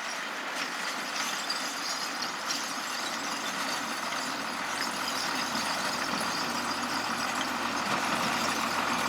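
Truck engine running steadily, slowly getting louder.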